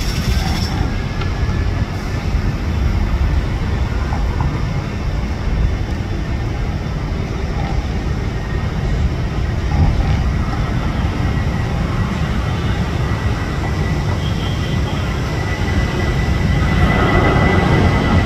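Jet airliner engines giving a steady low rumble, with a faint high whine coming in near the end.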